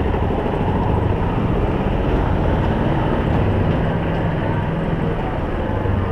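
Honda CB Hornet 160R motorcycle engine running steadily under a continuous rumble of road noise.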